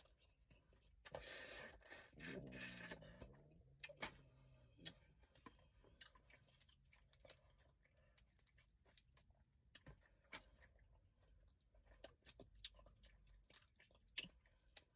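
Faint, close-up chewing with many small clicks and crunches of boiled crawfish being eaten and their shells cracked. A short hummed 'mm' comes about two seconds in.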